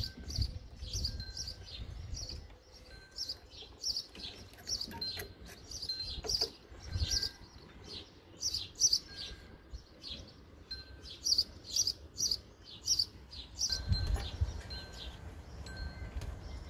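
Small birds chirping repeatedly, several short high chirps a second, with a low rumble near the end.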